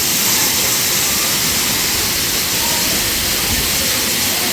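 Waterfall: a loud, steady rush of falling water, with faint voices underneath.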